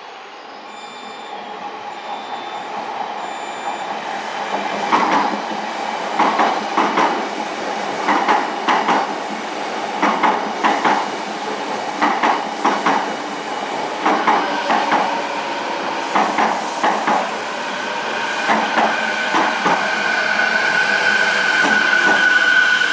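Odakyu 4000 series electric commuter train running past, its wheels knocking in quick pairs over rail joints, one pair after another as the bogies cross. The sound builds over the first few seconds, and a steady high whine comes in near the end.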